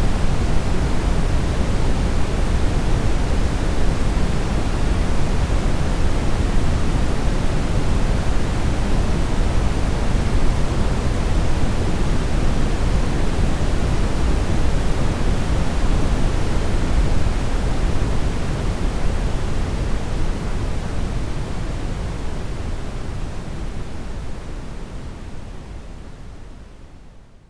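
Brown noise: a steady, deep hiss weighted toward the bass, with no tones or rhythm in it. It fades out gradually over the last ten seconds or so.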